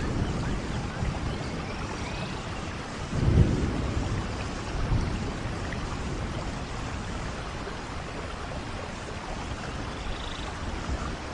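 Steady rain falling, with low rumbles of thunder: a strong roll about three seconds in and a weaker one about two seconds later.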